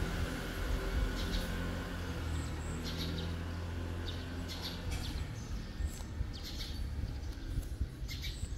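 Small birds chirping in short, high calls about once a second, over a steady low hum that fades out about halfway through.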